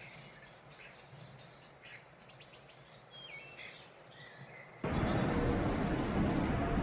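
Small songbirds chirping faintly in short, high calls. About five seconds in, a loud steady noise starts abruptly and covers them.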